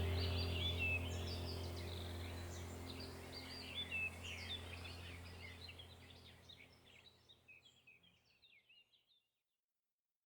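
Small birds chirping and twittering over a low steady hum, the whole sound fading out to silence about eight seconds in.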